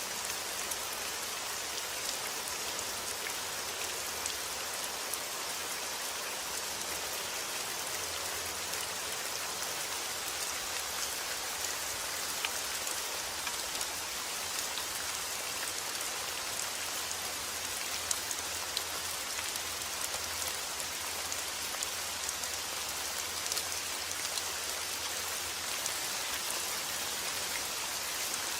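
Steady rain falling, a constant hiss with many small drop ticks spattering on surfaces.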